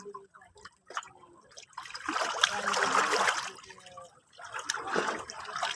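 Sea water washing and splashing in two surges, the first longer and louder, with small drips and trickles between them.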